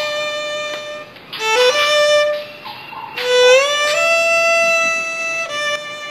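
Background music led by a solo violin playing long held notes, with a slide up into a higher note about halfway through.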